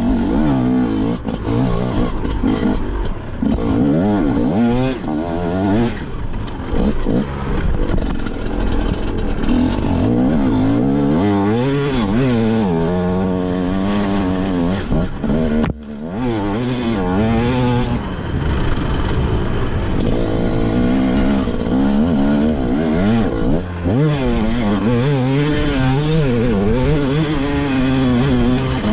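Enduro motorcycle engine revving hard off-road, its pitch rising and falling again and again with the throttle. About halfway through it breaks off for a moment and comes back.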